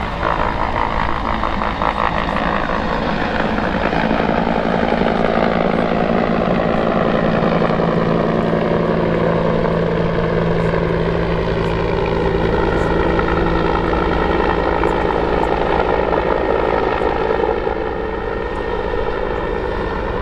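CH-146 Griffon helicopter (a twin-turboshaft Bell 412 variant) flying past, its rotor and turbine sound with several tones falling slowly in pitch as it goes by. The sound grows louder about two seconds in and eases slightly near the end.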